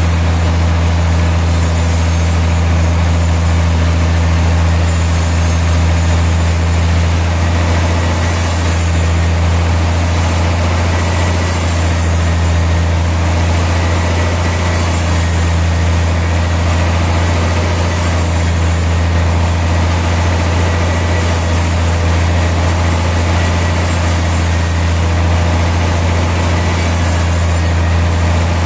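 Sawmill machinery running steadily with a loud, unchanging low drone.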